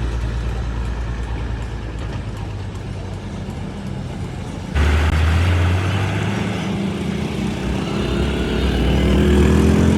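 Diesel truck engine running steadily. About five seconds in it cuts abruptly to a louder engine sound, and near the end the engine pitch rises as it revs or pulls away.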